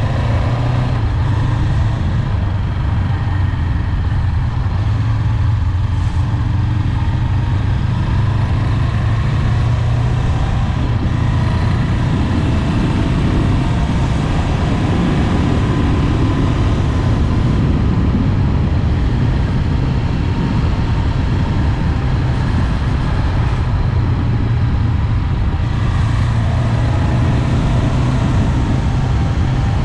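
Honda 400X motorcycle's parallel-twin engine running steadily at cruising speed, with no shifts or bursts of revving.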